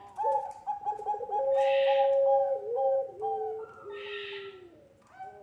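Puter pelung (ringneck turtle dove) cooing in long drawn-out calls, one note held steady for about a second near the middle. A faint hiss recurs about every two seconds.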